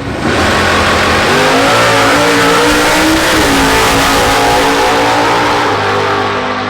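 A car engine at full throttle, very loud, cutting in suddenly; its pitch climbs over the first few seconds, then holds, and eases off near the end.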